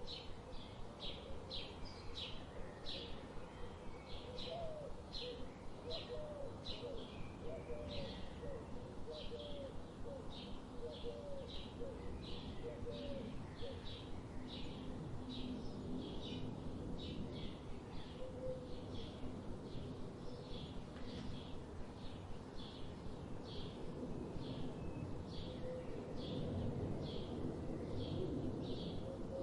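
A songbird repeating a short high call about twice a second, steadily throughout. In the first half a second bird adds a run of lower, short hooked notes, all over a steady low background rush.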